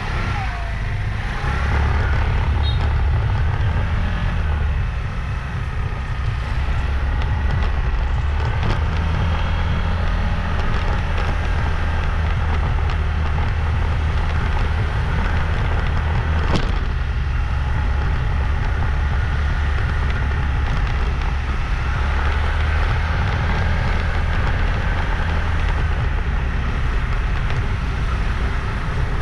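Motorbike riding on the road: steady engine running and rumbling wind on the microphone, with a single sharp click about halfway through.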